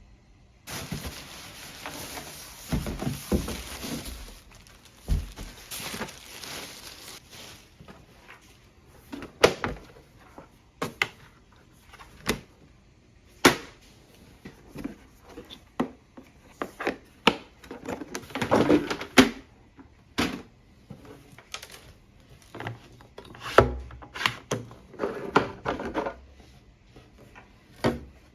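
Parts of a plastic portable flush toilet being handled: an irregular series of knocks, clicks and rattles, with rustling in the first few seconds and a longer scrape about two-thirds of the way through.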